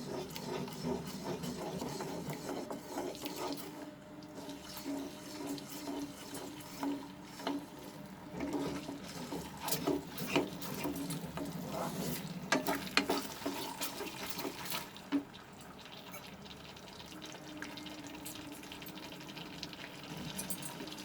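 Thickened tomato and corn-flour gravy cooking in a pan over a medium-high flame, bubbling, with a spatula stirring it and clicking against the pan at irregular moments.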